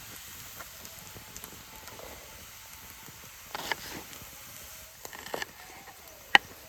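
Small wood fire in a camp stove crackling: scattered small clicks and a few soft bursts over a low hiss, with one loud, sharp pop near the end.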